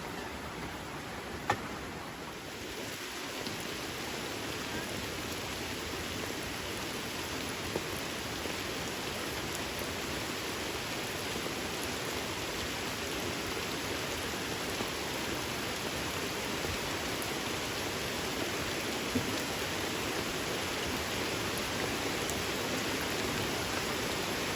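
Steady rain falling, getting a little heavier a couple of seconds in, with a few sharp taps.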